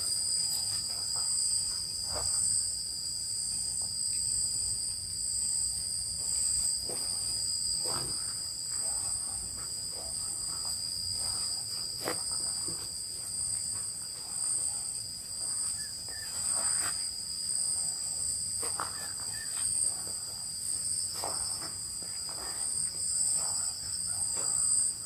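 A steady, high-pitched chorus of night insects, crickets trilling at two pitches with the higher one pulsing. Scattered faint clicks and rustles.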